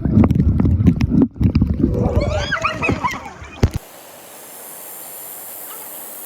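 Rumbling, splashing water noise at a valley stream with sharp knocks, and a string of high, wavering whines about two seconds in. Near four seconds it cuts off abruptly to a quieter steady hiss of flowing water with a high shrill edge.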